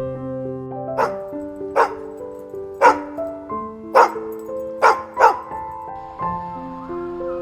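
A dog barking six times in short sharp barks, the last two close together, over soft sustained keyboard music.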